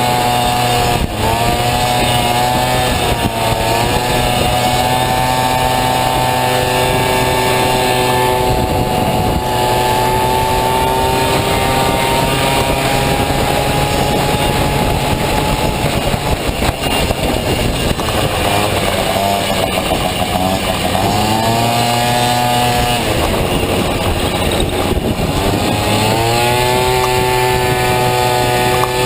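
Honda Dio two-stroke scooter engine in a Honda Motocompo, running hard under way; its pitch holds high and steady for long stretches, then twice drops away and climbs back up, about halfway through and again near the end.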